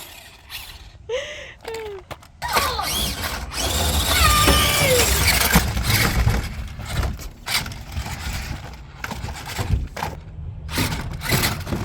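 Radio-controlled toy monster truck driving on playground equipment: motor and tyres running, with knocks and clatter, starting about two seconds in.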